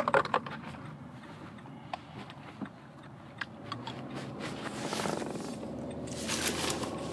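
Plastic cup and lid being handled: scattered clicks and taps, a cluster of them at the start, and two short scraping rustles about five seconds and six and a half seconds in.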